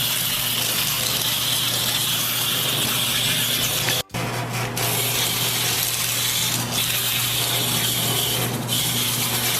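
Kabocha peeling machine running: a steady motor hum under an even hiss, broken off for a moment about four seconds in.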